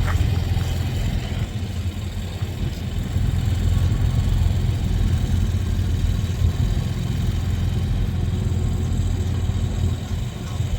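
Diesel locomotives of a freight train passing close by, a steady heavy engine rumble with noise from the rolling train. The tail of a horn note fades right at the start.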